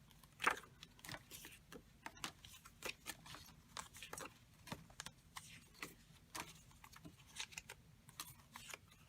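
Paper cut-out images being handled and sorted by hand: irregular short rustles and taps, the loudest about half a second in.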